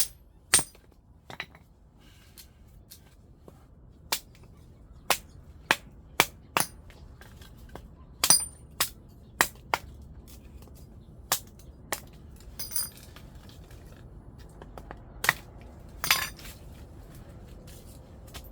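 Irregular sharp knocks and clinks of metal against metal, some with a brief high ring, as a wood-burning stove is worked on during cleaning.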